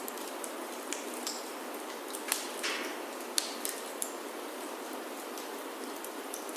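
Steady rain on a wooden chalet roof, with scattered sharp snaps and pops from a wood fire crackling in a fireplace; the loudest snaps come a little after two seconds in and again past three seconds.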